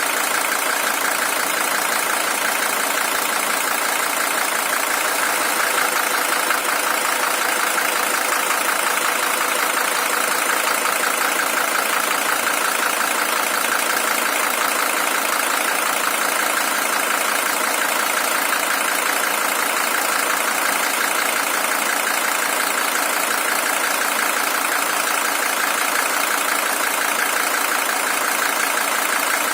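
Mercedes-Benz OM617 five-cylinder diesel engine in a W123 300TD idling steadily, with an even diesel clatter.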